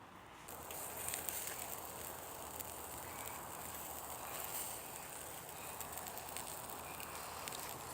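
Wood fire crackling faintly, a few scattered pops over a steady hiss.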